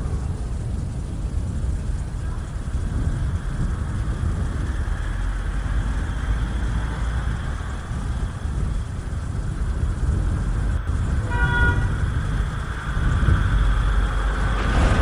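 Steady low rumble of road vehicles, with a short horn-like toot about eleven seconds in.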